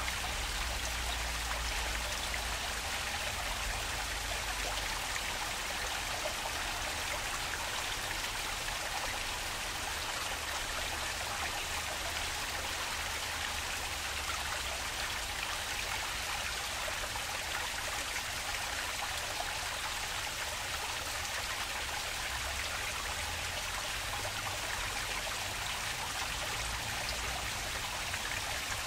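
Flowing water running steadily, an even rushing hiss with no breaks or changes.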